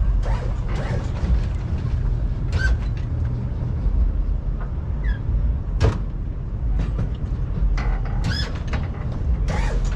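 Steady low rumble of vehicle engines running, with scattered sharp knocks and a few short squeaks on top.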